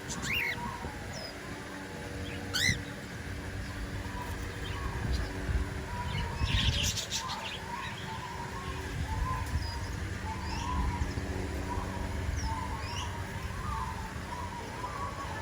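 Many aviary birds, parrots among them, chirping and twittering continuously. About three seconds in there is a sharp rising whistle, and around seven seconds in a brief burst of louder, harsher calls.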